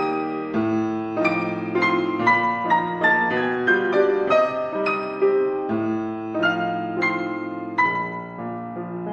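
Soft piano music: a steady stream of single struck notes over held lower chords.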